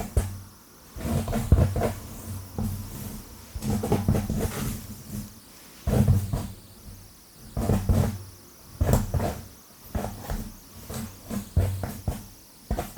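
Long fingernails scratching fast and hard through hair on a scalp, close to the microphone, in rough bursts about once a second.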